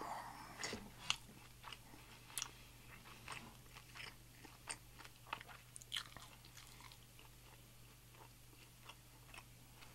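Close-miked chewing of a cheesy birria taco: soft, wet mouth clicks and smacks, busier in the first half and thinning out toward the end.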